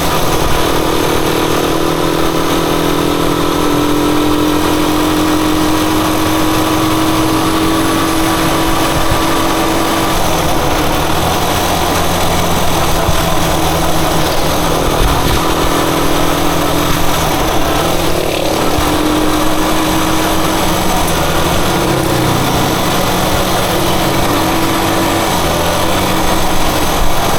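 Rusi Chariot 175 motorcycle engine running steadily, its pitch rising and falling a little.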